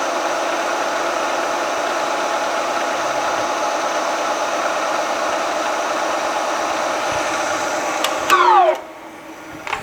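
Milling machine spindle running steadily while a drill bit works into a hard, flame-hardened steel crankshaft. About eight seconds in there is a brief louder burst, then the pitch falls quickly as the spindle winds down and the machine goes quiet.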